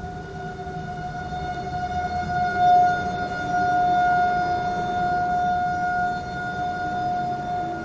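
Fire engine siren sounding one steady held tone that does not rise or fall in pitch, growing louder to a peak a few seconds in and then easing, over the low rumble of traffic.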